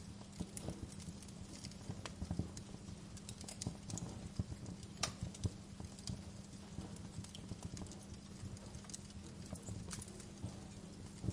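Wood fire in a fireplace crackling, with irregular snaps and pops and a few louder cracks, over a steady low hum.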